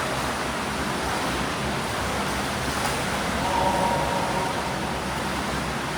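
Swimming pool ambience: a steady wash of splashing water and echoing hall noise from swimmers doing breaststroke drills, with a faint distant voice about three and a half seconds in.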